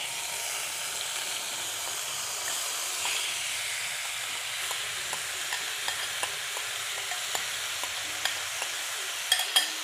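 Marinated minced chicken sizzling as it goes into hot ghee in a frying pan, a steady hiss. Scattered light clicks as the mixture is scraped out of a glass bowl, a few sharper ones near the end.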